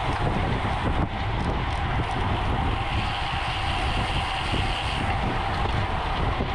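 Steady rush of wind over the microphone mixed with road and tyre noise from riding a road bicycle at race speed, with a slightly brighter hiss for a couple of seconds in the middle.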